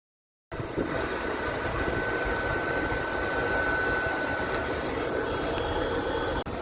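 VEVOR MIG-130 welder running, its cooling fan making a steady whir with a faint high steady whine from the wire feed through the middle, while the welding wire feeds through the torch. The sound cuts in suddenly about half a second in and stops abruptly near the end.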